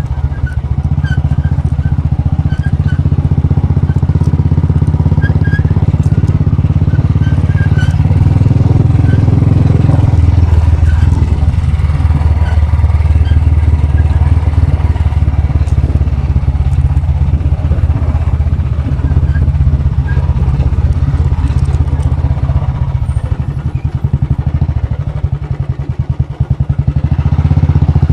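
Royal Enfield Bullet's single-cylinder engine running steadily. Its note shifts about a third of the way in, and it eases off briefly near the end before picking up again.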